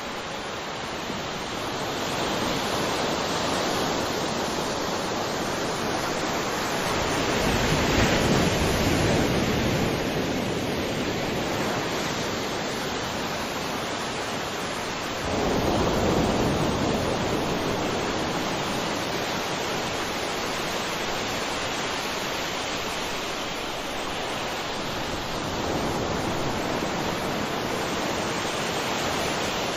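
Ocean surf: a steady rush of waves washing on a shore, with a wave breaking and swelling up about a quarter of the way through and another breaking more suddenly about halfway.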